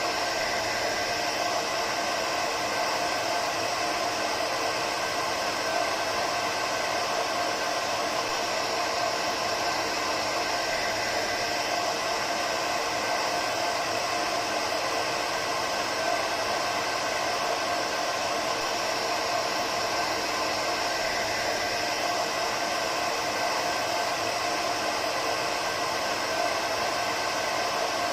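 Hair dryer running steadily: an even rushing blow of air with a faint motor whine, unchanging throughout.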